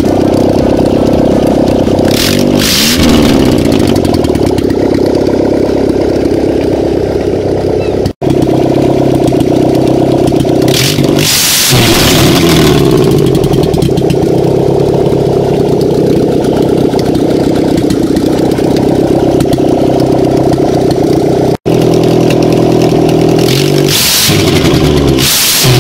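Four-cylinder petrol car engine running, revved up briefly three times. The sound drops out for an instant twice.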